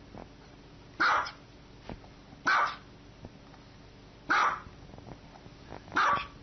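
Small white dog barking: four short barks, evenly spaced about every one and a half to two seconds.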